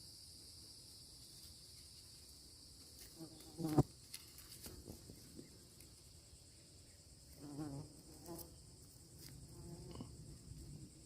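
Steady chorus of insects, a constant high-pitched drone, with a brief louder sound about four seconds in and another near eight seconds.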